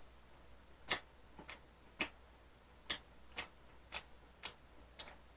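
Faint, wet mouth clicks from chewing a mouthful of burger with the mouth closed, about two a second and slightly uneven.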